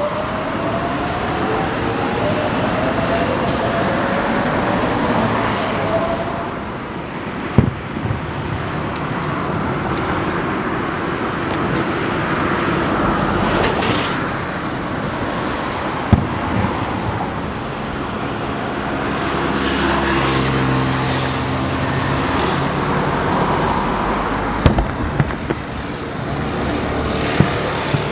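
Steady road traffic from passing cars, with one engine rising in pitch at the start. Several sharp, distant firework bangs cut through it at scattered moments.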